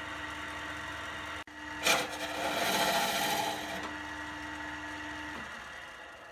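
Wood lathe running with a steady motor hum; about two seconds in a tool bites into the spinning wood, with a sharp hit and then a scraping cut lasting a second or so. Near the end the hum falls in pitch and fades as the lathe slows down.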